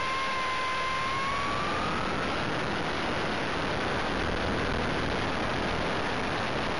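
RC helicopter's motor and rotors heard from a camera mounted on the helicopter: a steady rush of rotor wash and wind noise with a motor whine that rises in pitch a second or two in, then fades into the rush.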